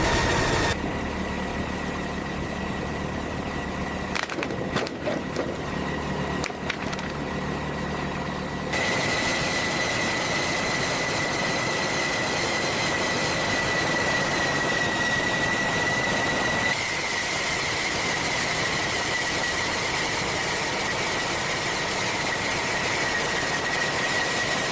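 Steady high-pitched mechanical whine over a hiss, from a running machine. The sound changes abruptly twice, first about a third of the way in, then again past halfway, with a few clicks shortly before the first change.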